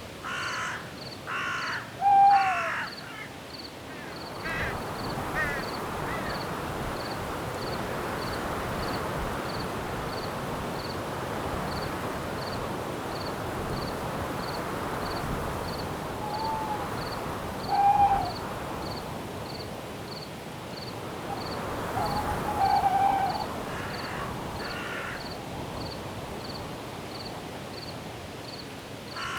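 Night-forest ambience: a crow cawing in short runs near the start and again near the end, and a cricket chirping steadily, a little more than once a second. Wind rises in the trees through the middle, and a few short falling calls stand out over it.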